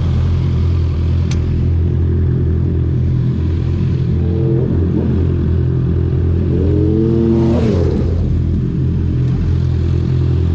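2021 Honda CB650R's inline-four engine through an Akrapovic full-system titanium exhaust with the dB killer removed, running steadily at low, constant revs. Twice, a higher engine note rises and falls briefly over it.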